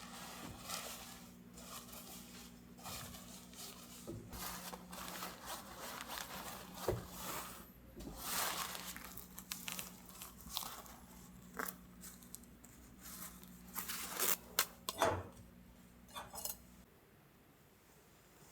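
Irregular crinkling and rustling with sharp clicks and light clatter, like things being handled and unwrapped, over a faint steady low hum that stops near the end.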